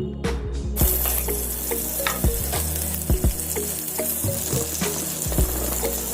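Butter sizzling in a hot frying pan, the sizzle starting well under a second in and holding steady.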